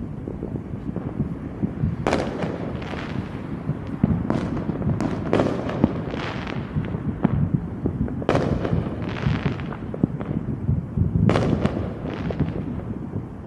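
Fireworks going off: a string of sharp bangs at irregular intervals, roughly one to two seconds apart, each trailing off briefly, over a steady low rumble.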